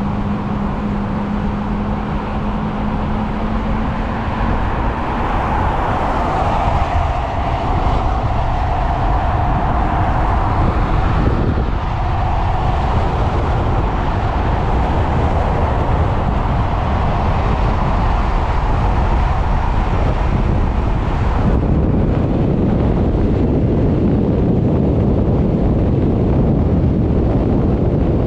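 Wind buffeting the microphone over a steady low rumble of road noise while riding an electric motorcycle, with a faint motor whine in the first half; the sound changes abruptly about three quarters of the way through.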